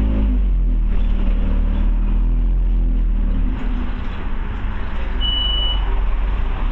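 Scania OmniCity bus under way, heard from inside: a low engine drone and road rumble. A short, steady high beep sounds about five seconds in.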